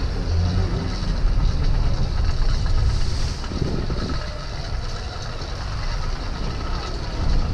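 Small engine of a motorized bicycle running, easing off a little about halfway.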